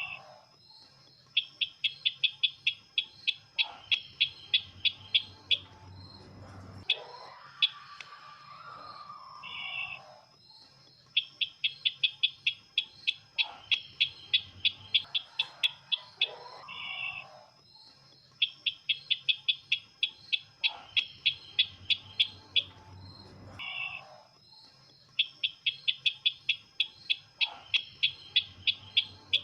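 A bird call known locally as the sisintar ladang, used as a lure: four long strings of rapid, sharp, high notes, about three loud notes a second for some four seconds each. Softer, lower calls come between the strings.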